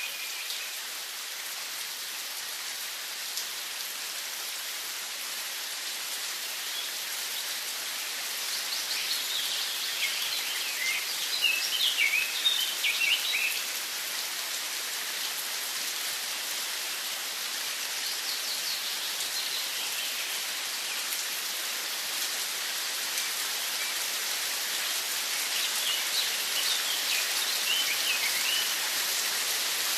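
Steady hiss of falling rain, with a bird chirping in quick bursts about ten seconds in and again near the end.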